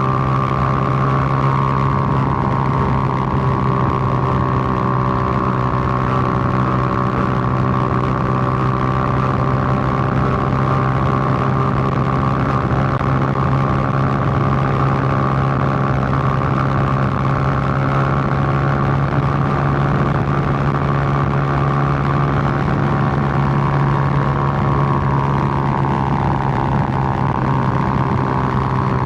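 Suzuki GN125's single-cylinder four-stroke engine running steadily while ridden, its pitch dipping briefly near the end and rising again.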